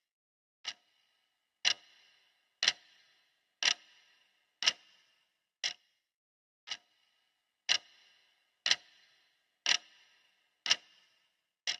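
Clock ticking, one tick a second, alternating louder ringing ticks with softer, shorter ones: the steady tick-tock of a countdown timer's ticking sound track.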